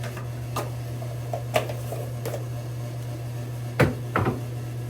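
Shaving brush and lather bowl handled during lathering: a few light clicks and knocks, then two louder knocks in quick succession near the end, over a steady low hum.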